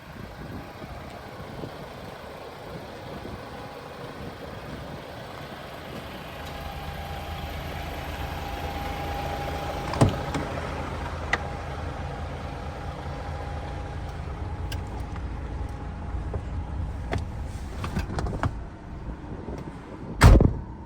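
DAF XF480 truck's PACCAR MX-13 diesel engine running, with a steady whine that comes in about a third of the way through and fades out by about three quarters. Scattered clicks and knocks, and a single heavy thump near the end.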